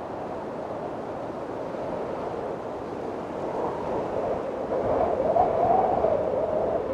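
Windstorm: strong wind blowing steadily, swelling into a louder gust about four seconds in with a wavering howl, then easing near the end.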